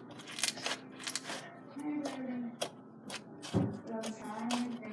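Foam-bead slime being mixed and squished, a run of irregular crackling clicks, with a deeper thump about three and a half seconds in.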